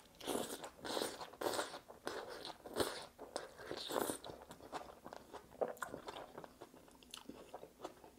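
Close-up biting and chewing of a homemade buffalo chicken sandwich on toasted bread with crispy skin-on fried chicken and coleslaw: crunchy mouthfuls, loudest over the first few seconds, then quieter chewing.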